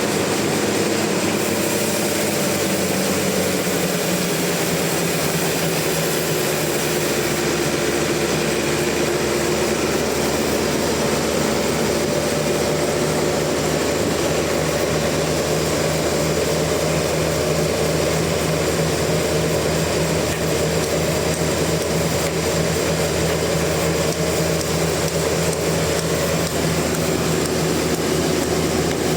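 Sawmill saw running steadily through a large log, a loud constant mechanical drone that drops slightly in pitch a few seconds in.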